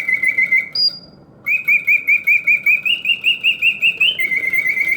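Early-1940s Karl Griesbaum singing bird cage automaton on continuous play, its bellows-driven whistle singing mechanical birdsong in fast trills of about seven chirps a second. About a second in there is a short rising whistle and a brief pause, then the trills resume, stepping up in pitch and later back down.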